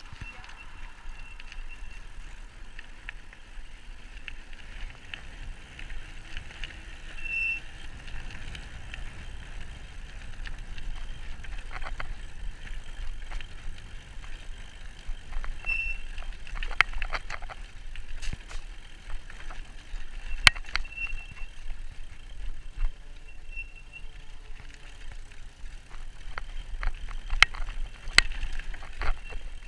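E-bike ridden along a rough towpath: steady tyre and frame noise with a constant high-pitched whine, broken by sharp rattles and clicks over bumps, in clusters through the middle and near the end.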